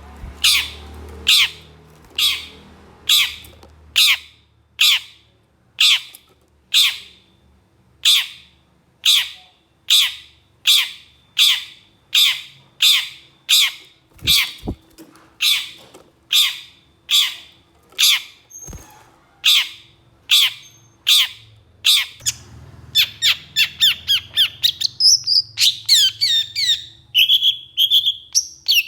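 Long-tailed shrike giving harsh, rasping calls repeated about once a second, then speeding into a quick run of short notes and varied chattering notes in the last few seconds.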